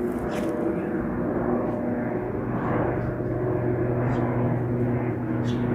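Jet airliner engines passing low overhead: a steady roar with a humming drone, slowly growing louder.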